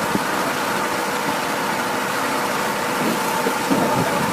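A heavy machine's engine running steadily, with a constant whine.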